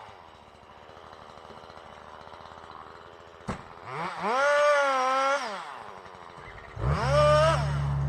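Chainsaw revved in short throttle bursts, its pitch rising, holding and dropping back to idle, twice, with a sharp click just before the first burst. A low, steady engine drone from a heavier machine starts under the second burst.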